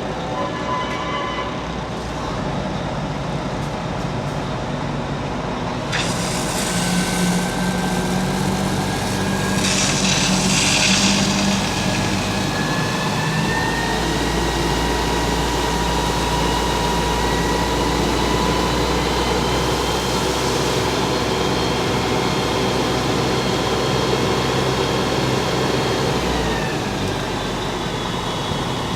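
Fire truck engine running steadily with a high whine that climbs slowly in pitch. Hissing comes in about six seconds in and again around ten seconds, and the sound drops a little near the end.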